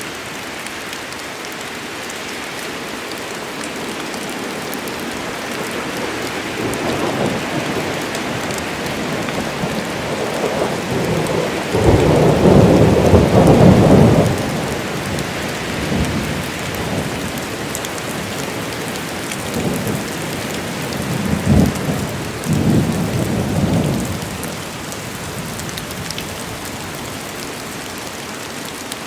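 Steady rain in a forest with rolling thunder. A rumble builds from about six seconds in and peaks in a long, loud roll a few seconds later. Two shorter rumbles come in the second half, then only the rain is left.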